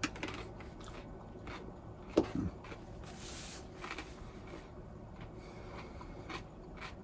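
A person eating a bite of fresh leafy salad: irregular small crunches and clicks of chewing, with a sharper knock a little after two seconds in.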